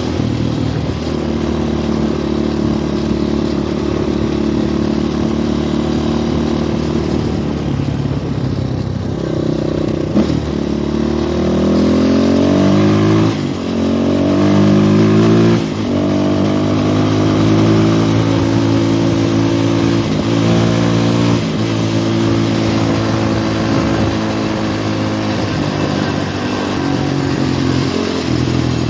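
Four-stroke single-cylinder engine of an RVM CZ 250T trail motorcycle running under way, holding steady revs, then revving up through the gears with two brief dips at the shifts around the middle, and settling back to a steady pace.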